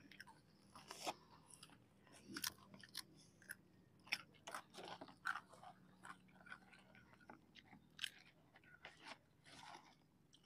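Quiet chewing and crunching of crispy deep-fried snacks (gorengan), with many short, sharp crackles scattered throughout.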